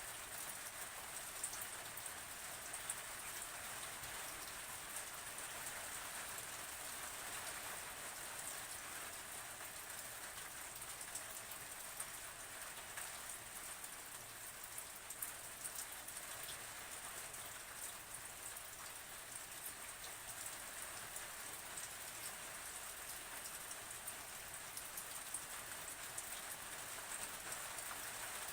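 Steady rain falling on a surface, a continuous hiss dotted with many small drop ticks.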